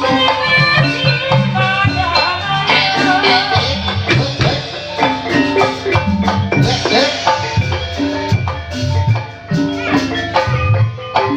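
Gamelan music accompanying an ebeg dance: quick runs of mallet-struck pitched percussion over steady drumming.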